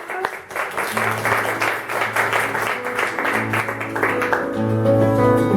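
Audience applause dying away as a Contreras M-1 studio guitar begins to play, first with low held bass notes, then with clearly ringing picked notes near the end.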